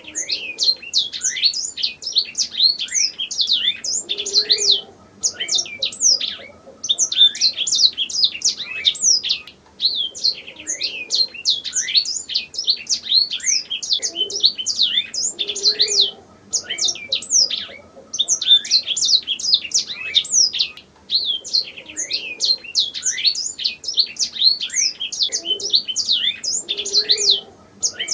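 Domestic canary singing in long, rapid trilled phrases of quick downward-sweeping notes, with brief pauses every few seconds.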